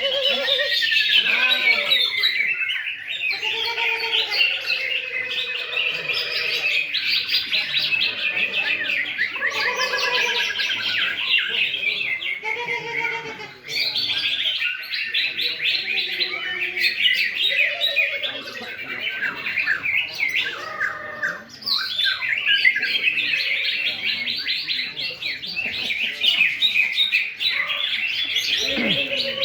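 Several greater green leafbirds (cucak ijo) singing at once, a dense, continuous chatter of fast chirps and trills, with lower whistled notes mixed in and two brief lulls.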